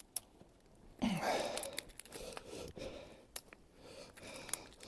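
Dry twigs and bark being handled: a soft rustle about a second in and a few sharp little snaps or clicks spread through the rest.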